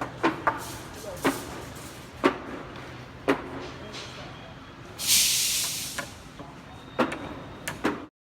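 Heavy vehicle running with a steady low hum and irregular sharp knocks and clanks. A loud burst of air hiss, like an air brake releasing, comes about five seconds in. The sound cuts off abruptly just before the end.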